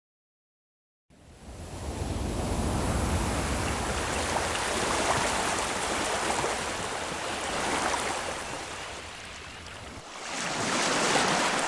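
Nature-sound recording of rushing water that swells and eases. It fades in after about a second of silence.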